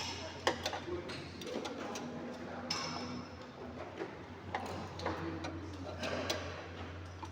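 Irregular clicks and light metallic knocks of hand tools and brake parts being handled, over a low steady hum.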